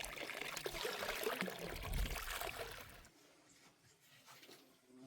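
Liquid pouring with a splashing trickle, which stops suddenly about three seconds in.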